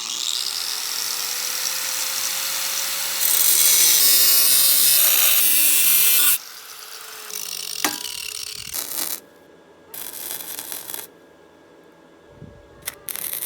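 Electric power tool spinning up and cutting through a steel motorcycle tailpipe, a steady whine under a harsh hiss that gets louder about three seconds in and stops about six seconds in. Shorter bursts of tool noise follow later.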